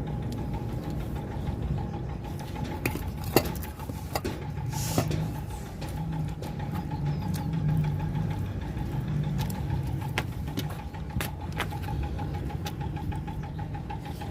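Close-miked eating sounds: chewing with scattered sharp mouth clicks and smacks. Under them runs a steady motor hum with a fast pulsing tone.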